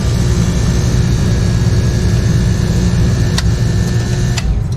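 Lennox package unit running on stage 2 cooling: its second compressor runs with a steady, heavy hum and sounds healthy. Two sharp clicks come about three and a half seconds in and again near the end, after which the higher part of the noise drops.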